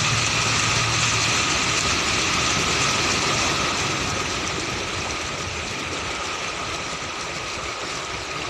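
Car running, heard from inside the cabin: a steady low engine hum under an even hiss of tyres and road noise, slightly louder in the first few seconds.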